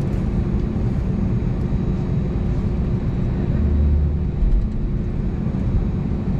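Steady cabin rumble inside an Airbus A320neo on the ground after landing, a low hum with a faint steady tone, swelling briefly in the lowest range about four seconds in.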